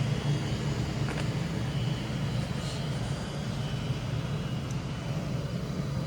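Steady low rumble of a train at the station, even throughout with no change in level.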